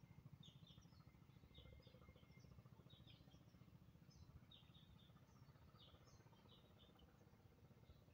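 Faint bird calls: short high chirps, often in pairs, repeating about once a second over a low background rumble.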